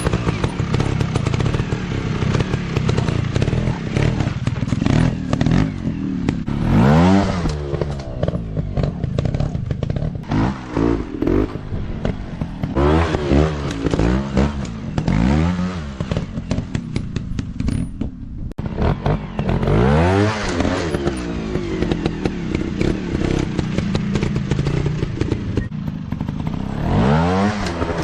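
Dirt bike engines revving up and falling back over and over as they ride, with some clatter mixed in.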